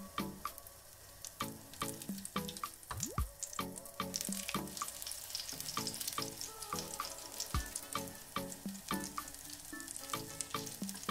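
Breaded potato patties sizzling and crackling in shallow hot oil in a frying pan, the crackle growing denser from about four seconds in, after one patty is turned. Background music with a steady beat plays along.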